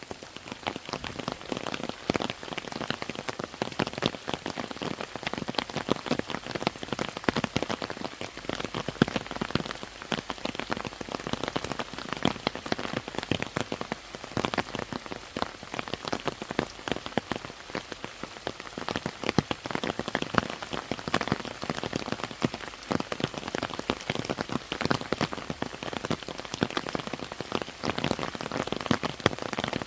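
Steady rain falling, with a dense stream of individual drops striking close by.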